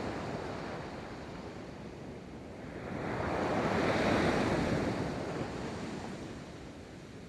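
Ocean waves rolling onto a beach: the wash of one wave fades, then the next wave swells and breaks about four seconds in before washing out again.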